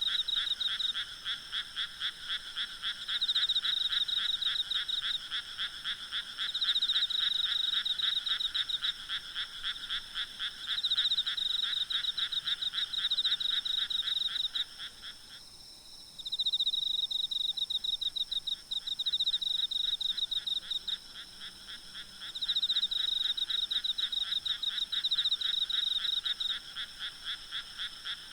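A night chorus of many frogs calling at once, rapid pulsed croaks overlapping and swelling and easing in waves, dropping away briefly about halfway through. Under it runs a steady high trill of insects.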